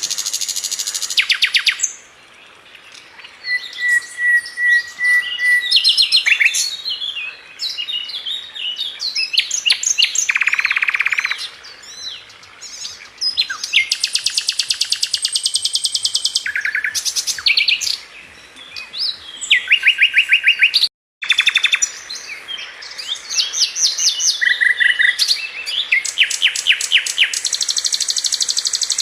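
A Sikatan London flycatcher singing: a loud, varied song of rapid high trills and fast repeated notes, broken by short pauses. The sound cuts out completely for a moment about 21 seconds in.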